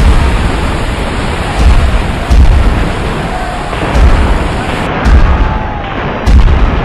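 Naval battle sound effects: a loud, continuous rumbling din broken by about six heavy booms of explosions, coming at uneven intervals of one to two seconds.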